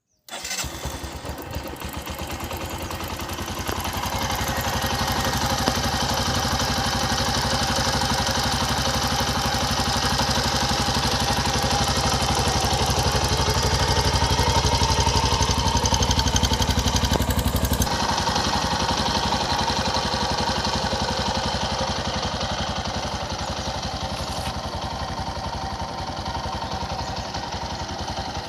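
Bajaj CT 110X motorcycle's single-cylinder four-stroke engine idling, heard at its exhaust with a steady beat. It grows louder over the first few seconds, and about two-thirds of the way through the deep part of the sound drops away and it eases slightly.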